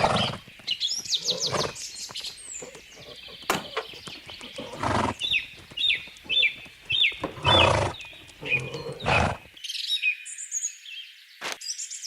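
Birds chirping repeatedly in short high calls, with several louder, brief noisy sounds among them.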